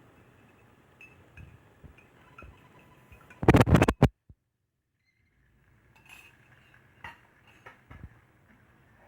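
Kitchen utensils clinking lightly against dishes and pans, with a loud clatter of several quick knocks about three and a half seconds in; the sound then cuts out completely for about a second before the light clinks resume.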